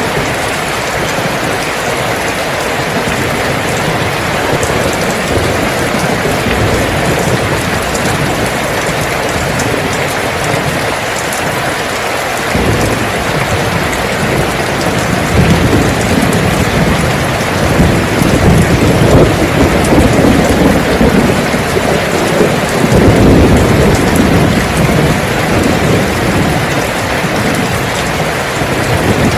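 Heavy rain falling steadily. A low rumble swells from about halfway through and is loudest a few seconds before the end.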